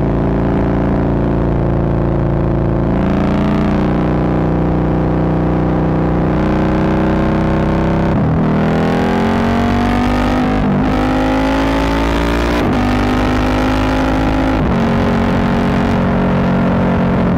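Sport motorcycle engine heard from the rider's onboard camera, cruising steadily at motorway speed. About eight seconds in it accelerates hard, the pitch climbing and dropping at each upshift, then settles back to a steady run, with wind rush on the microphone throughout.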